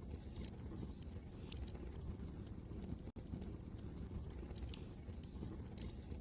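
Wood fire crackling in a fireplace: irregular sharp pops and snaps over a steady low rumble of wind. The sound cuts out for an instant about three seconds in.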